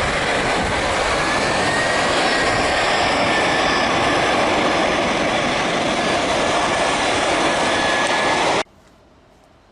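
Jet airliner passing close on landing: steady, loud engine noise with a faint whine that slides slightly in pitch. It cuts off abruptly about eight and a half seconds in.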